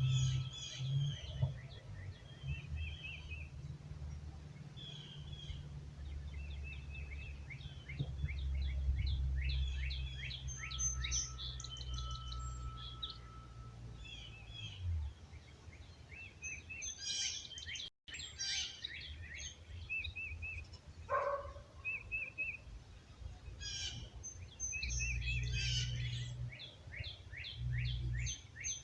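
A dawn chorus of many small songbirds chirping and trilling over one another, with a gusty low rumble of wind on the microphone. A wind chime rings a sustained note now and then.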